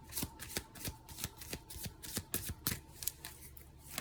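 A tarot deck being shuffled by hand: an uneven run of crisp card slaps and snaps, about three or four a second.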